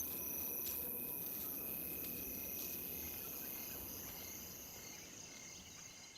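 Insects, crickets among them, chirring steadily in a high, thin band, slowly fading out and gone near the end.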